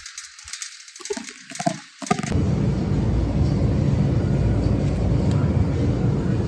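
A few scattered clicks and knocks, then about two seconds in a steady vehicle rumble starts and continues.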